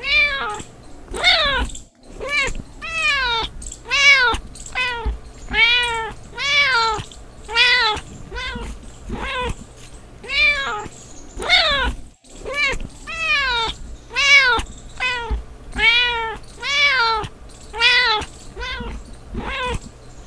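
A cat meowing over and over, about one meow a second, each call rising and then falling in pitch.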